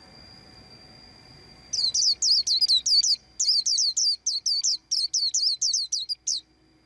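White-eye chirping: a fast run of sharp, down-slurred high chirps, about five a second, starting after a second and a half and lasting about four and a half seconds with a brief break near the middle. Under it a faint, steady high tone.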